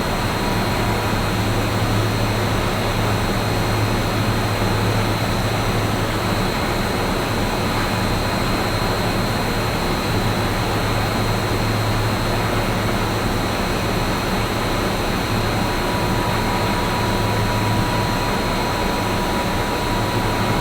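Rice-husk-fired biomass steam boiler plant running: a steady machine roar with a low hum and a faint high whine, typical of its fans and blowers.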